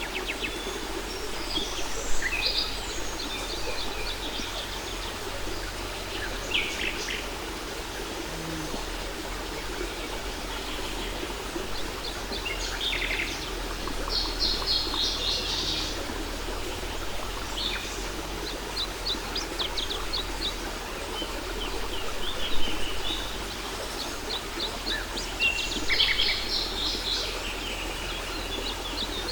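Several songbirds chirping and singing in short calls and quick trills, scattered throughout over a steady rush of falling water from a waterfall.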